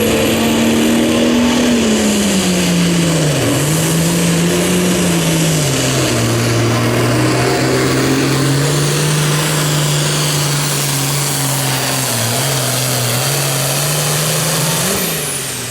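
Super Farm class pulling tractor's turbocharged diesel engine running flat out under load, dragging the weight-transfer sled. Its pitch sags in the first few seconds as the load builds, then holds steady, dipping briefly and rising again just before the end.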